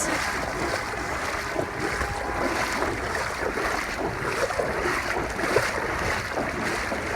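Heavy rain and strong wind: a steady rushing noise, with wind buffeting the microphone.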